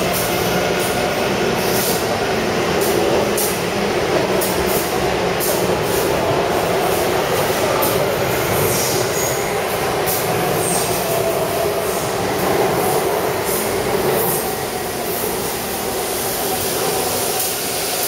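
Taipei Metro C371-series train running along the track: a steady rumble of wheels and traction motors with faint wavering tones, and light high clicks through the first half. The sound eases slightly about fourteen seconds in.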